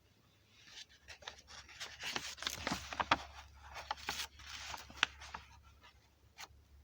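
Rustling and scraping with scattered sharp clicks, like something being handled or rubbed, dying away after about five seconds, with one more click near the end.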